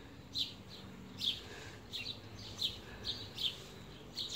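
Small birds chirping: short, high, downward-sliding chirps repeating about twice a second over faint outdoor background noise.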